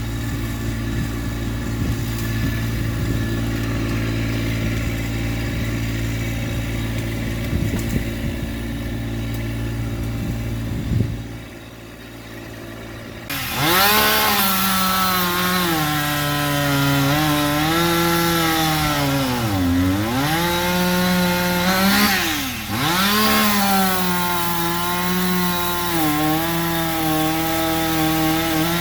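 Massey Ferguson GC1710 tractor's three-cylinder diesel running steadily for about eleven seconds. Then, about thirteen seconds in, a chainsaw starts running hard, its pitch sagging deeply and recovering twice as it bogs down cutting wood.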